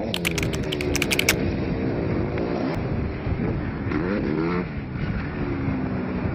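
Motocross motorcycle engines revving on a dirt track, their pitch rising and falling as throttle is opened and shut, with a sharp upward rev about four seconds in. A quick run of crackling clicks comes near the start.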